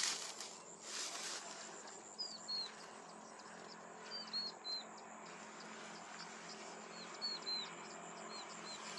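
A small bird chirping in short groups of two or three quick hooked notes, repeated every couple of seconds, over a faint steady high hiss. Two brief rustles come near the start.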